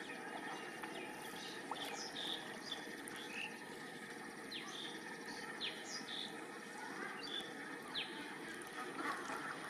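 Small birds chirping: scattered short, quick falling calls over a steady outdoor background noise.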